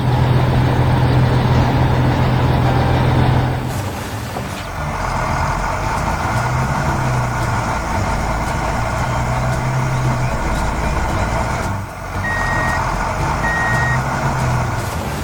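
Heavy construction-vehicle engine running steadily, with two short reversing beeps near the end.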